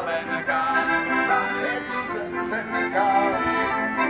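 Accordion music: a melody over held chords.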